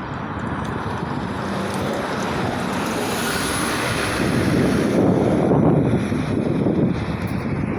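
A heavy truck driving past: engine and tyre noise swell steadily to a peak about five seconds in, then ease off a little.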